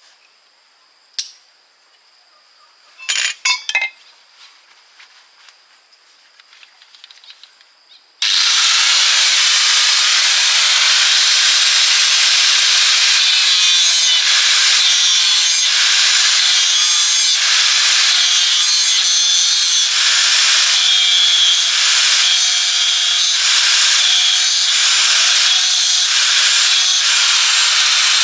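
A power tool starts suddenly about 8 seconds in, after a click and a short clatter, and runs with a loud, steady, high-pitched rasping that swells about once a second, as if it were being worked in strokes against a part.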